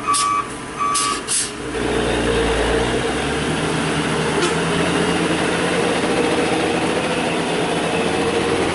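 A truck's reversing alarm beeping twice a second, with a few short hisses of air, stops about a second and a half in. A heavily loaded coal truck's diesel engine then comes in, running loud and steady under load on the steep climb.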